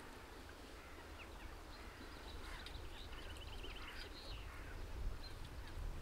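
Small birds chirping, with a short trill of rapid repeated notes about halfway through, over a steady low rumble.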